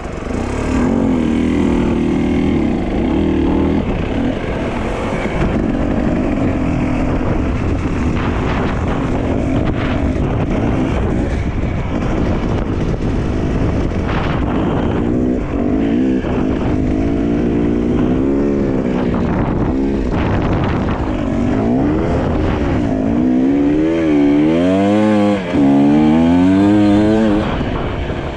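Dirt bike engine running under way, the revs rising and falling with the throttle and swinging up and down quickly several times near the end.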